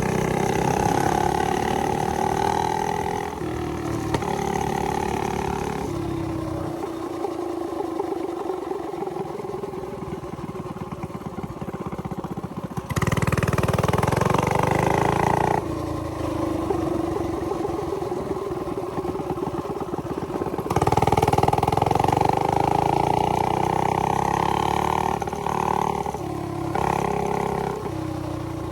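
Small single-cylinder mini bike engine running under throttle, revving up to a loud high pitch several times and dropping back between.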